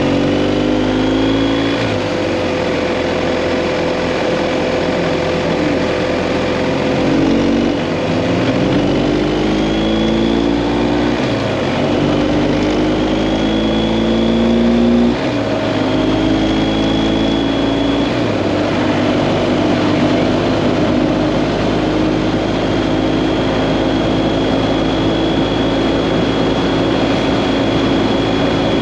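BMW GS Adventure motorcycle engine accelerating up through the gears: the engine note climbs, then drops back at each upshift, several times over, with wind rush.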